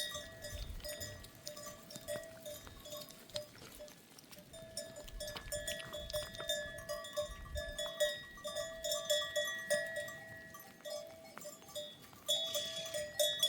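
Metal bells hung on herd goats clinking and ringing as the animals move, in uneven clusters of strikes that come and go.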